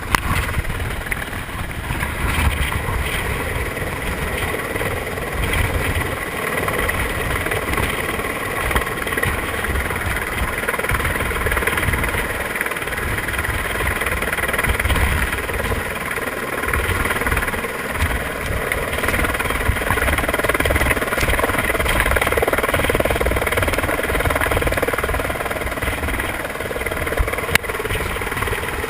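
Helicopter hovering close by: the steady whine of its turbine over the throb of the rotor and the rush of its downwash, with a brief click near the end.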